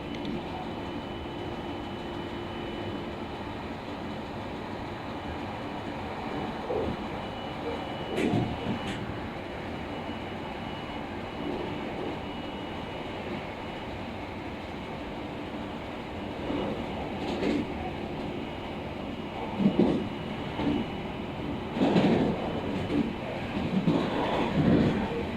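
Running noise heard inside a local train's passenger car: a steady rumble, with several short knocks and rattles in the second half.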